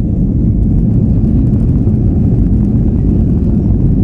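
Airbus A320's twin jet engines running at high thrust, heard from inside the cabin as a loud, steady, deep rumble.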